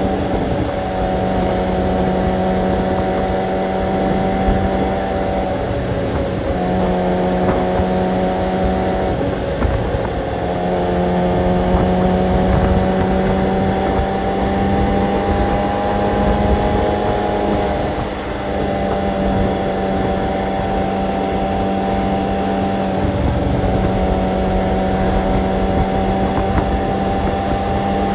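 Kawasaki sport motorcycle's engine running steadily under way, its note briefly dipping and picking up again about four times.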